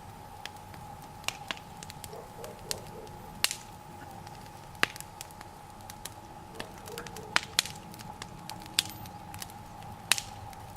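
Wood fire of boards and raspberry canes crackling, with about a dozen sharp, irregularly spaced pops.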